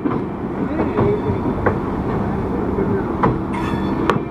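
Passenger train running on the rails: a steady rumble with sharp, irregular wheel clicks, and a short hiss about three and a half seconds in.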